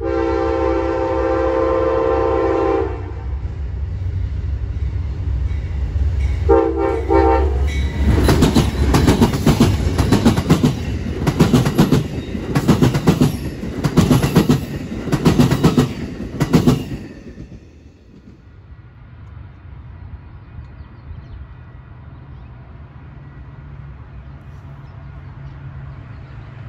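A passenger train's air horn sounds one long chord blast, then a short one a few seconds later, over the building rumble of the approaching locomotive. As the double-deck cars pass close by, their wheels clack steadily over the rail joints, about one and a half clacks a second, for around nine seconds. The sound then falls off suddenly to a faint receding rumble.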